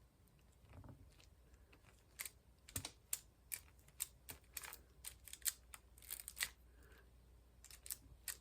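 Light, irregular clicks and taps of square resin diamond-painting drills being set and pressed down onto the sticky canvas, about two or three a second from about two seconds in.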